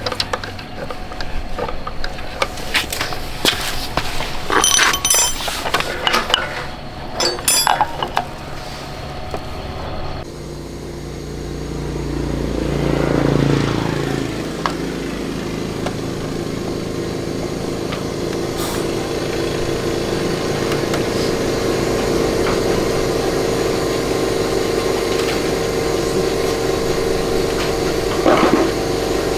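Metal tools clinking and knocking on a motorcycle for about ten seconds. Then a motorcycle engine runs, swells briefly in a short rev, and settles into a steady idle.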